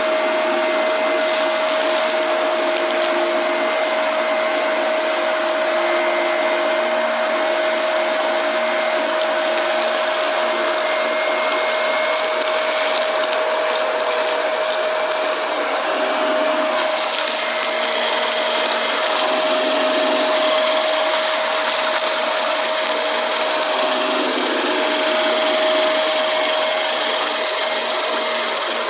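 Shark vacuum cleaner running with a steady motor whine, sucking up crunchy debris with a crackling, sizzling hiss. The hiss turns brighter about seventeen seconds in.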